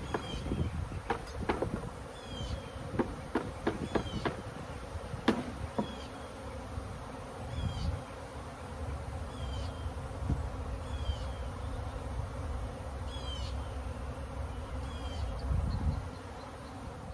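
Honey bees buzzing in a dense, steady hum around an opened hive, with several sharp knocks and clicks in the first few seconds.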